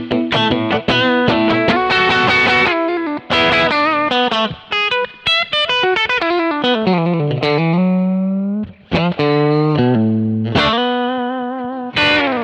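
Solo single-coil Strat-style electric guitar played through an overdriven amp: picked single notes and double stops, a slide down in pitch and back up about seven to eight seconds in, and a last chord struck near the end and left to ring.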